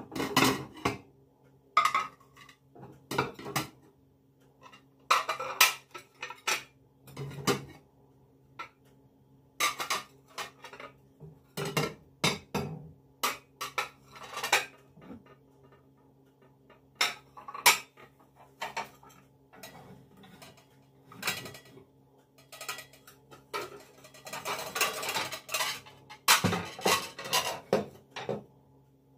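Dishes and cutlery being handled: irregular clinks and clatters of crockery and metal utensils set down and moved about, with a denser run of clattering near the end. A faint steady low hum sits underneath.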